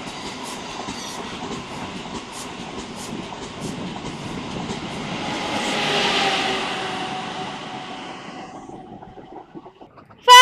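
Renfe train passing on the rails, its wheels clicking over the rail joints. It grows louder to a peak about six seconds in, then fades away.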